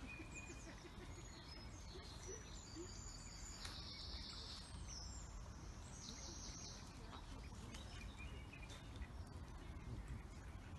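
Quiet outdoor ambience: a steady low rumble with faint high bird chirps and twitters, busiest a few seconds in.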